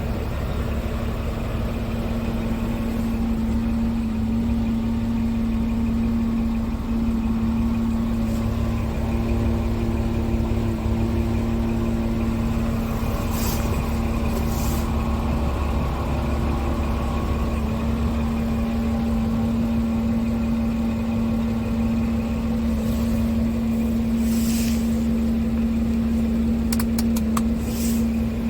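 Scania R tractor unit's diesel engine running steadily, with a few short hisses about halfway through and again later on.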